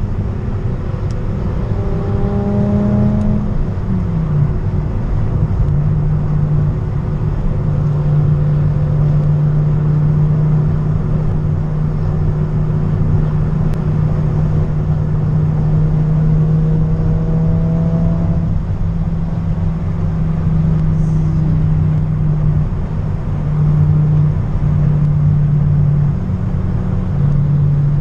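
A car engine running with a steady low drone, rising in pitch briefly twice, once near the start and again about halfway through.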